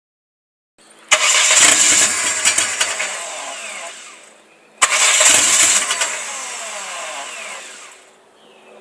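Saturn SW2's 1.9-litre four-cylinder engine, which has a misfire, blipped twice. Each time the revs jump suddenly, then fall back to idle over a few seconds.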